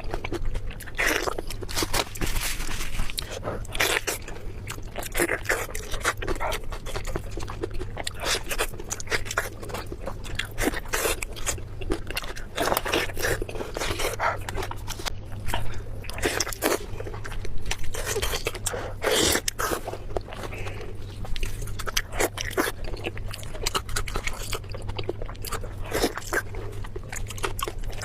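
Close-miked eating: a person biting and chewing crunchy food, with irregular crunches coming every fraction of a second to a second.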